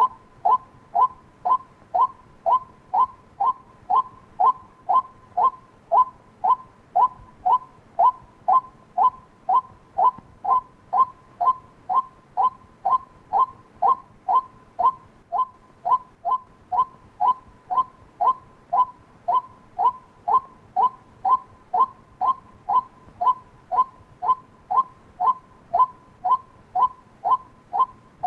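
White-breasted waterhen giving its call, one short note repeated about twice a second at an even, unbroken rhythm, each note sliding slightly downward.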